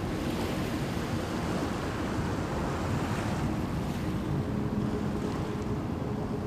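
Steady wash of ocean surf, swelling slightly toward the middle.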